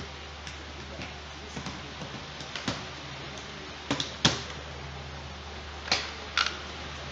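Scattered sharp clicks and knocks from a laptop being handled and worked on during hardware repair, the loudest a little past four seconds in, over a steady low hum.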